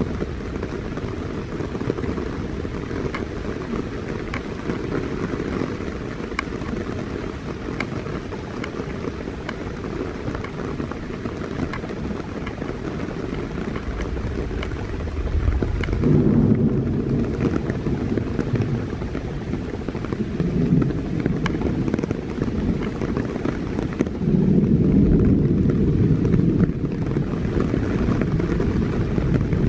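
Heavy rain falling, with drops pattering on a rain-soaked camera microphone. The sound is muffled, and it swells louder about halfway through and again near the end.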